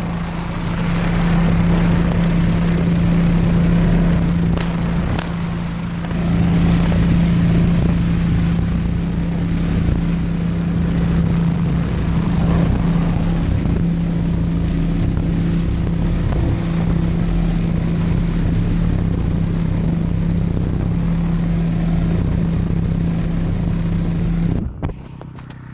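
DeWalt 4,200 PSI pressure washer with a spinning nozzle running steadily, its engine humming under the hiss of the water jet blasting grass and weeds out of the bottom of a wire fence. It stops shortly before the end.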